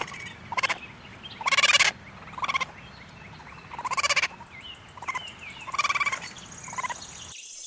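Raccoon calling: a series of short, harsh, wavering chitters, about nine of them, irregularly spaced. They stop near the end, leaving a steady high insect hum.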